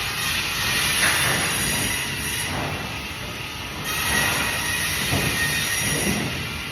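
Band saw running and cutting through fish, a steady loud machine noise with a high squeal from the blade.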